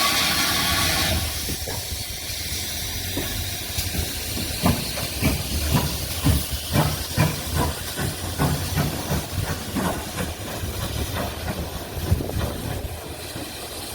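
Steam locomotive 4247, a GWR 42xx 2-8-0 tank engine, letting off a loud hiss of steam for about the first second. It then moves off with a steady run of exhaust chuffs, about two a second, which fade near the end.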